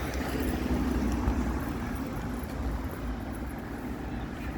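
A large vehicle's engine running nearby: a steady low rumble with a faint hum over it in the first second or so.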